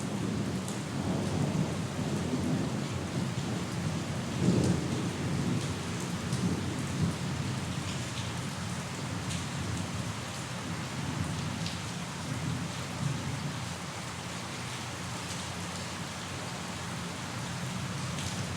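Steady rain falling, with scattered drop ticks, under a low rolling rumble of distant thunder that swells about a quarter of the way in and fades away after about two-thirds.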